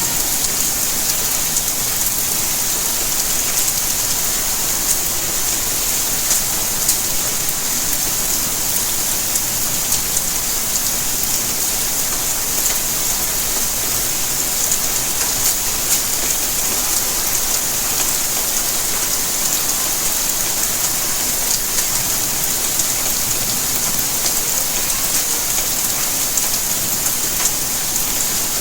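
Steady rainfall: an even, unbroken hiss of rain on surfaces, with many small drop hits ticking through it.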